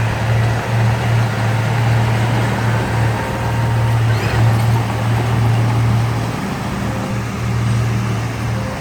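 Heavy diesel engine of earthmoving machinery running steadily under load, a deep constant hum with a broad mechanical rumble over it.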